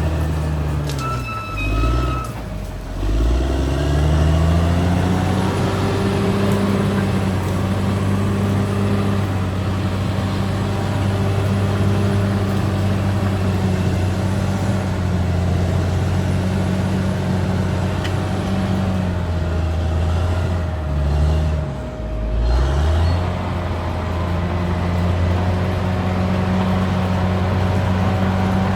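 Caterpillar D6R XL bulldozer's diesel engine running steadily. Its speed drops and climbs back twice, about two seconds in and again about twenty-one seconds in, as it works under changing load. A thin high squeal sounds over it in the first second or so.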